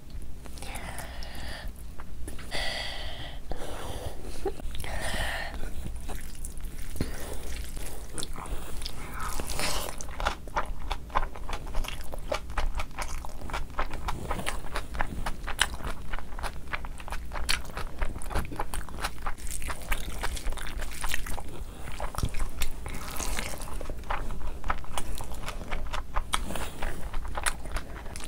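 Close-up chewing of a mouthful of biryani rice and meat, eaten by hand: a steady stream of small, wet mouth clicks and smacks.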